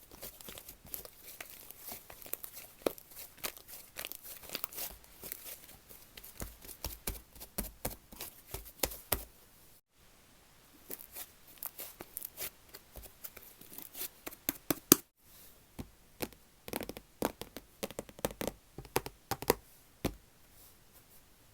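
Slime squished, stretched and poked by hand, giving fast, irregular crackles and small pops. The sound drops out briefly twice, about halfway through and again about two-thirds of the way in.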